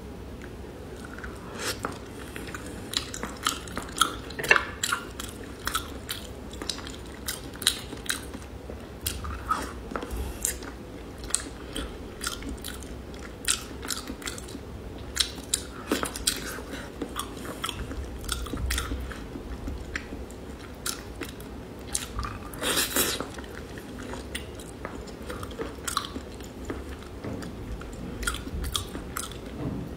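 Close-miked chewing and biting of raw salmon sashimi, with irregular mouth clicks and smacks throughout and a louder stretch about two-thirds of the way in.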